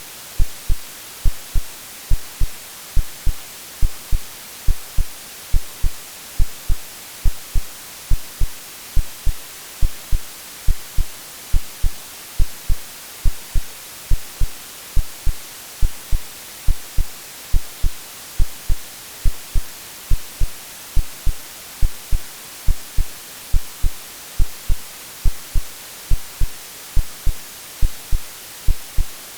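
Synthetic heartbeat, a steady lub-dub of paired low thumps, over a constant bed of white-noise hiss.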